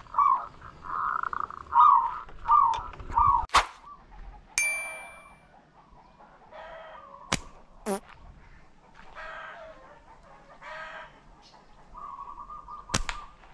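A bird calling over and over, short falling notes for the first few seconds, then a sharp snap and a ringing metallic ding. After that, a few scattered clicks and fainter calls, with a held call near the end.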